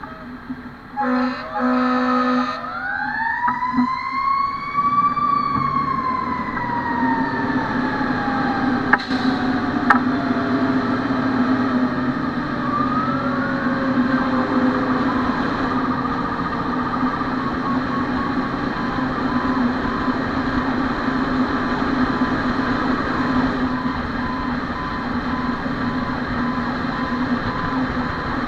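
Fire engine siren rising in pitch over about three seconds, then slowly falling away, and rising again about 13 seconds in, over the steady drone of the truck's engine. A short steady horn-like tone sounds about a second in, just before the siren starts.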